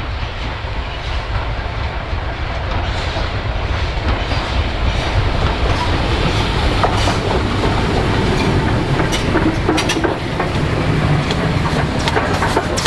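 Steam-hauled train passing at close range, its wheels clattering over the rail joints. The rumble grows louder over the first few seconds, and sharp clicks of the wheels come thick near the end.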